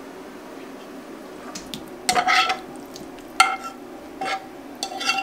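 Metal fork scraping and knocking against a frying pan as cooked food is tipped out into a bowl. There are four short scrapes from about two seconds in, and the pan rings briefly with each.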